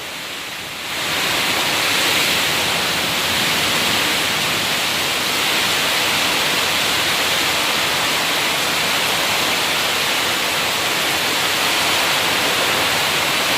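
Heavy storm rain pouring down: a dense, steady hiss that swells about a second in and then holds steady.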